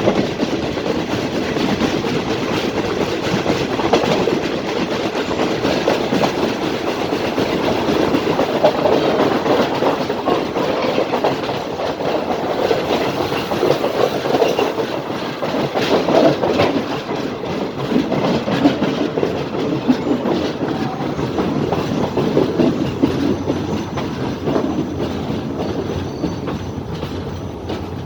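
Passenger train running through a station, its steel wheels clattering over the rail joints in a loud, dense, steady rattle that drops away near the end.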